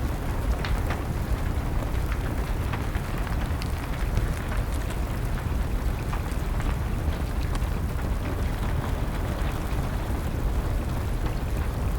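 Steady rain over a deep, even rumble, with many small scattered pops and crackles of a wood fire.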